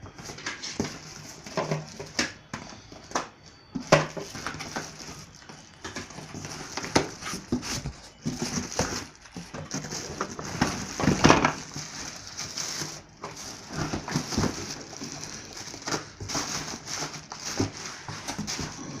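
Irregular rustling, crinkling and knocking as packaging and the vacuum cleaner's plastic parts are handled, with several sharper clacks scattered through.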